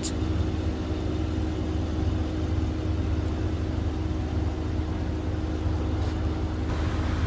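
Steady mechanical hum inside a Mercedes-Benz S63 AMG's cabin, low with a few steady tones above it, that cuts off near the end.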